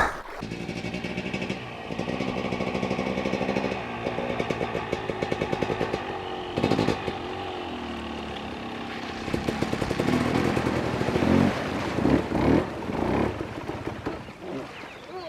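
Enduro dirt bike engine running and being revved, its note rising and falling, rougher and busier during the second half.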